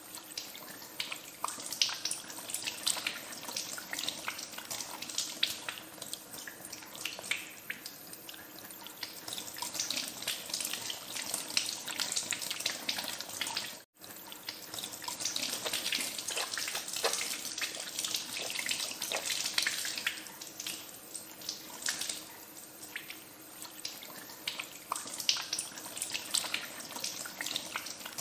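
Water running from a tap into a sink, splashing irregularly as hands are washed under it. The sound cuts out for an instant about halfway through.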